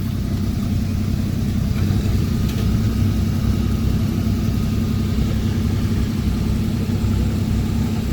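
2010 Toyota Tacoma TRD Off Road pickup's engine running steadily at a constant pace, a continuous low rumble with a steady hum.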